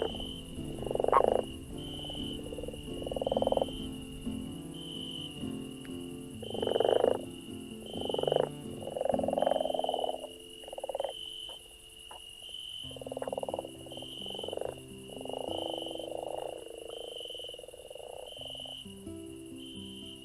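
Night nature ambience: repeated short pulsed animal calls, each half a second to a second long and irregularly spaced, over a steady, evenly pulsing high chirp. Low sustained tones run underneath.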